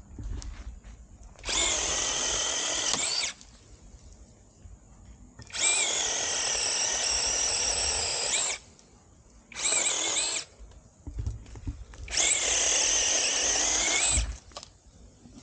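SeeSii battery-powered handheld mini chainsaw running in four bursts of one to three seconds, its electric motor and chain giving a steady high whine, as it cuts through wood.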